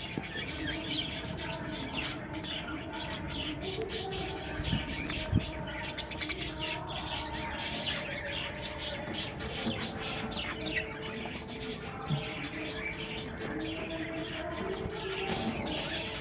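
Pet budgerigars and lovebirds chirping and chattering together: a rapid, overlapping stream of short high chirps, busiest in the middle and again near the end.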